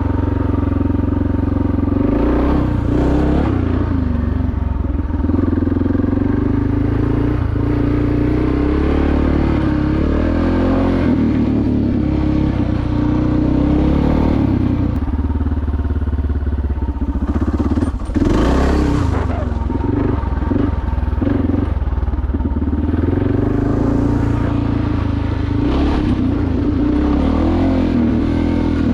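Suzuki DR650SE single-cylinder engine with a SuperTrapp exhaust, running under way, its pitch shifting up and down with the throttle. A brief rush of noise comes about eighteen seconds in.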